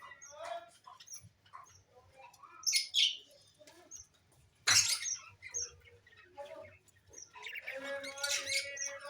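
Pet lovebirds chirping in short, scattered calls, with a few sharper, louder calls, the loudest about five seconds in.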